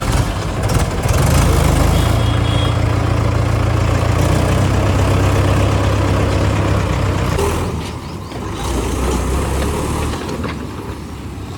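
A vehicle engine running steadily with a low drone. It comes in suddenly at full level and drops somewhat about eight seconds in.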